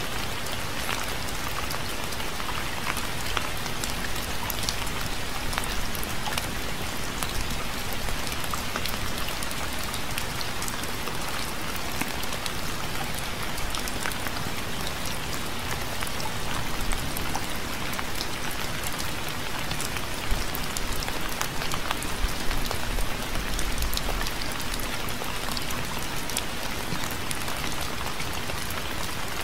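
Steady rain falling, with many individual drops striking a surface as a dense scatter of sharp ticks over the even hiss of the downpour.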